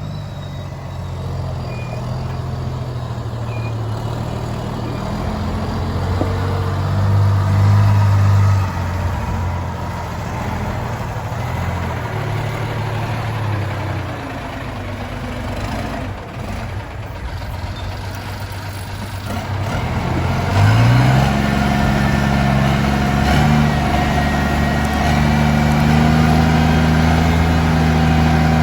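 Heavy diesel engine of earth-moving machinery running at a steady low speed. About twenty seconds in it revs up and holds a higher, steady speed.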